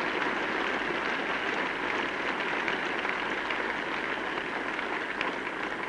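Large cricket crowd applauding steadily, easing off slightly near the end: applause for a batsman's fifty.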